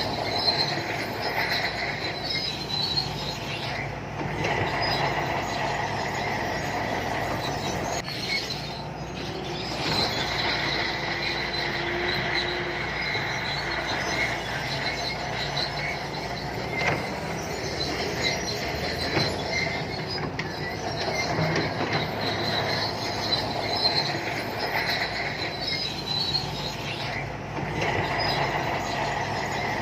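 SANTUI crawler bulldozer at work: its diesel engine runs steadily while the steel tracks squeal with a high-pitched sound.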